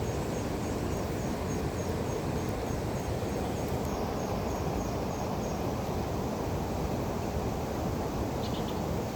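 Steady rushing of a rain-swollen river. A faint high, evenly spaced ticking runs through the first half, and a brief high chirp comes near the end.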